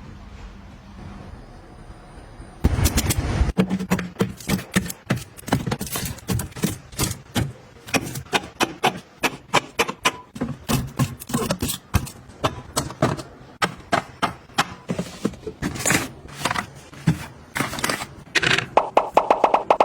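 Rapid, irregular sharp clicks and taps of items being handled and set down, starting about two and a half seconds in after a quieter stretch.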